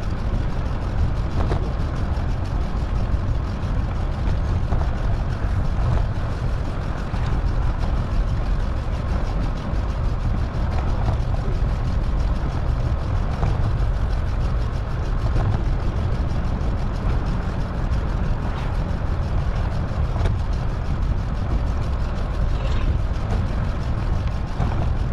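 Wind buffeting the microphone of a moving bicycle, a steady low rumble with a few faint ticks.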